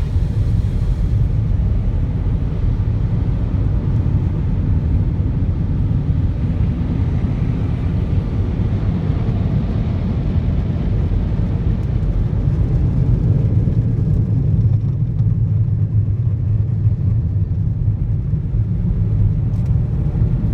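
Steady low rumble of a car at the exit of a tunnel car wash, with no distinct clicks or changes.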